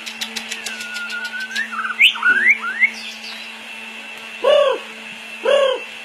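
White-rumped shama singing: a run of quick clicks, then clear whistled notes that slide down and up, followed by two louder short calls about a second apart near the end. A steady low hum runs underneath.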